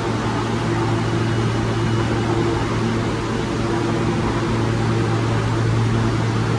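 Steady mechanical hum with a low drone and a faint hiss in a subway station, unchanging throughout.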